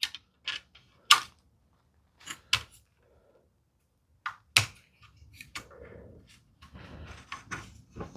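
Light, sharp clicks and taps of a square and a template being set and shifted against a wooden workpiece on the bench, about six spread over the first five seconds, then softer handling and rubbing noises.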